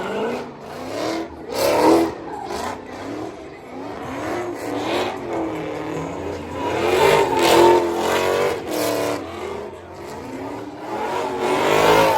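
Car engines revving hard in repeated surges, with tires squealing. The loudest surges come about two seconds in, around seven to eight seconds in, and near the end.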